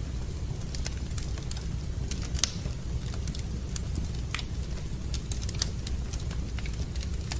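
Wood fire burning in a fireplace, crackling with scattered irregular pops over a steady low rumble, with one louder pop about two and a half seconds in.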